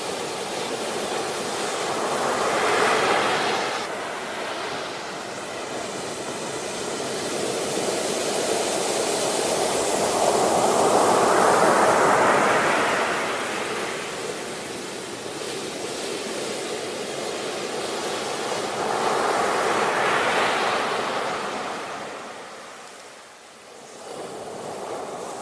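Ocean waves washing in: the surf swells and fades three times, the middle surge the loudest.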